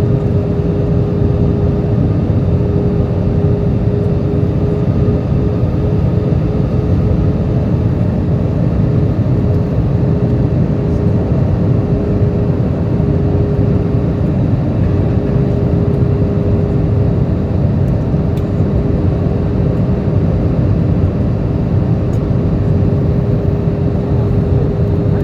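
Airbus A320 cabin noise at a window seat in flight: a steady rumble of engines and airflow with a constant hum.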